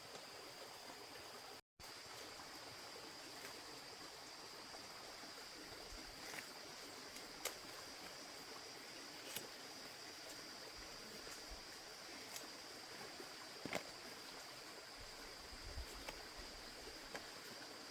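Steady hiss like running water, with a steady high-pitched tone over it and a few faint ticks. The sound drops out for an instant about two seconds in.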